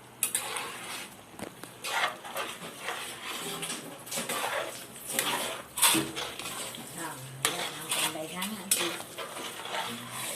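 A spoon stirring curry in a cooking pot, scraping and clinking irregularly against the pot.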